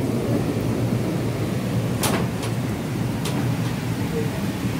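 Passenger train running, a steady low rumble heard from inside the coach, with a few sharp clicks about two and three seconds in.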